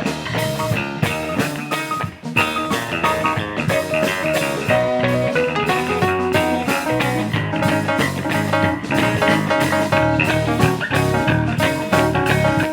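Band playing an instrumental jam with guitar over a drum kit keeping a steady beat.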